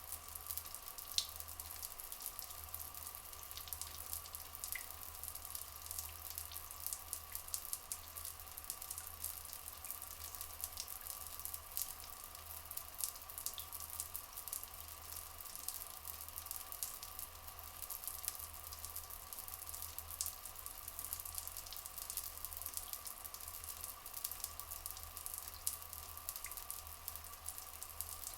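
Flowing water, trickling and splashing steadily with many small drips.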